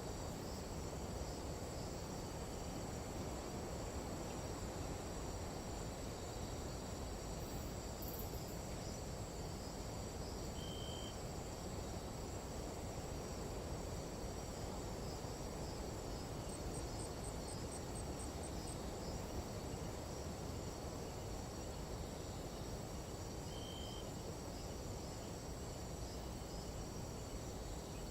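Tropical night insect chorus: crickets and other insects trilling steadily and shrilly over a low, even hiss of night ambience. A short high note sounds twice, and a quick run of faint ticks comes about two-thirds of the way through.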